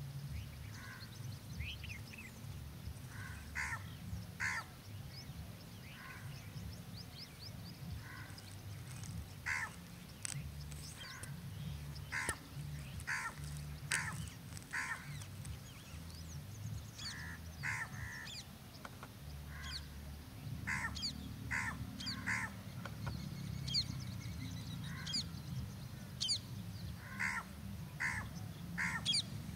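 Birds calling in the background: short harsh calls repeated irregularly, about one a second, with thin high chirps from other small birds, over a low steady rumble.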